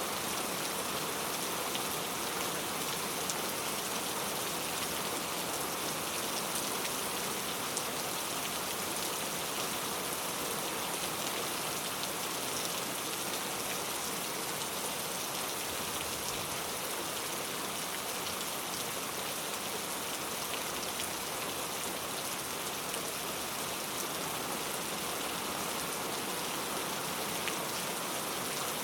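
Steady rainfall, many fine drops pattering on a surface, without a break or change.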